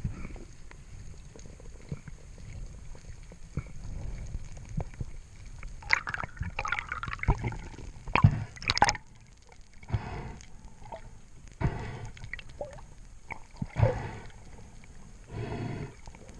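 Water gurgling and sloshing with scattered sharp clicks, growing busier with louder bursts from about six seconds in.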